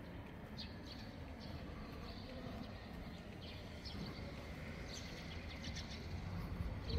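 Small birds chirping in short, repeated notes over a low, steady outdoor rumble.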